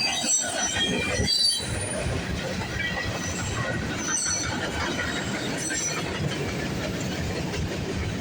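Freight train cars rolling past at trackside: a steady rumble of steel wheels on rail, with thin high-pitched wheel squeals coming and going, most often in the first couple of seconds.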